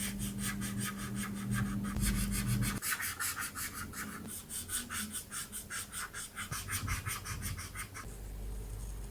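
Felt-tip marker rubbing back and forth on paper while coloring in, in quick, even strokes at about five a second; the strokes stop about eight seconds in.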